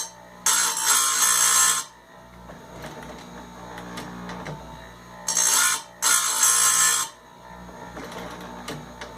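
Bench chainsaw-chain grinder: its electric motor hums steadily while the grinding wheel is brought down onto the chain's cutters in three grinding bursts of about a second each, the first near the start and the last two close together a little past the middle.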